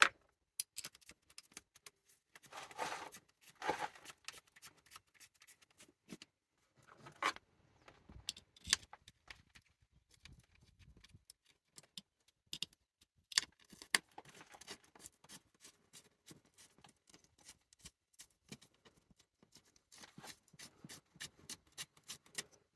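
Scattered small metal clicks, clinks and scrapes of bolts and hand tools being handled while an engine's valve cover is bolted back on.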